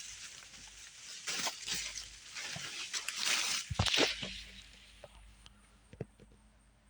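Hand-handling noises at the tractor while its engine oil is checked: scattered scrapes, rustles and clicks, with a sharp knock about four seconds in, tailing off to a few faint clicks.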